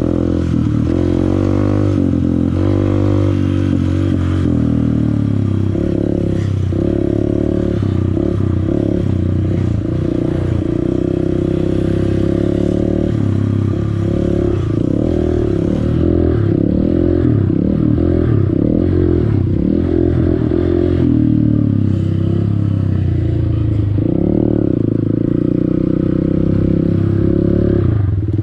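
Honda CRF150L's single-cylinder four-stroke engine under way on a dirt trail, its revs rising and falling again and again as the throttle is opened and closed.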